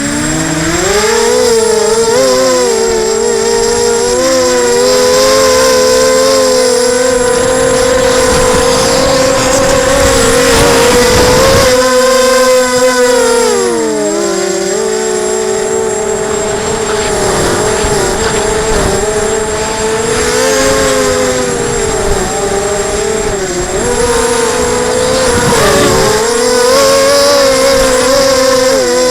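Emax 250 racing quadcopter's four brushless motors and propellers whirring in a several-toned hum that dips and rises in pitch every few seconds as it holds against gusty wind, with wind rumbling over the microphone.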